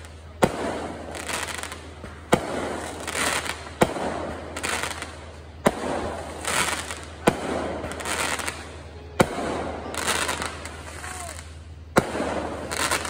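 Aerial fireworks shells bursting overhead: seven sharp bangs one and a half to three seconds apart, each followed by a rolling tail of echo and crackle.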